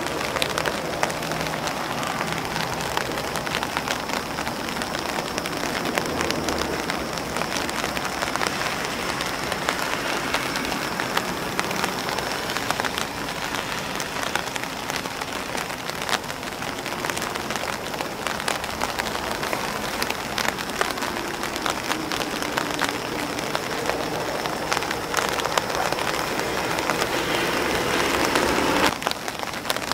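Rain falling on grass and on an umbrella: a steady dense patter with many sharp individual drop taps. It gets slightly quieter near the end.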